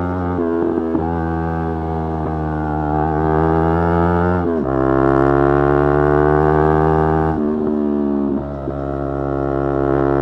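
Yamaha R3's 321 cc parallel-twin engine running under way at a steady speed. Its note breaks and shifts pitch briefly about half a second in, again about four and a half seconds in, and once more between seven and a half and nine seconds, with a short dip in level near the end.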